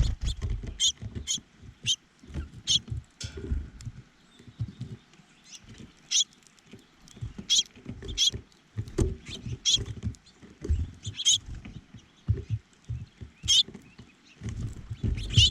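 Small birds at a feeder giving short, high chirps every second or so, with irregular low bumps and rustling close to the microphone.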